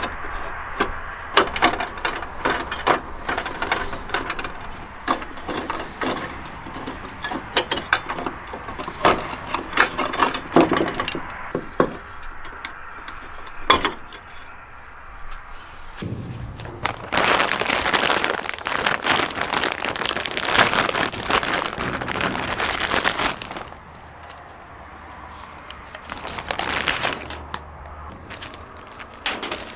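Hands-on work removing a Jeep Cherokee XJ headlight: irregular clicks and knocks of plastic and metal parts being handled, with several seconds of loud scraping and rattling in the middle and a shorter burst near the end.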